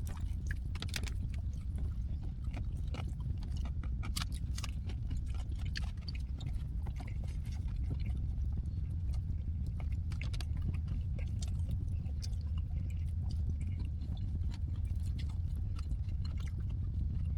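A person chewing food close to the microphone, with small scattered clicks of eating. A steady low hum runs underneath.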